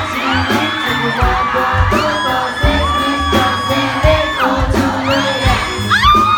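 Live pop music with a steady kick-drum beat and singing, with the crowd cheering and screaming along.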